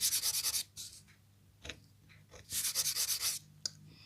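A scratch-art board being scraped with a metal stylus: two bursts of quick scratching strokes, one at the start and one about two and a half seconds in.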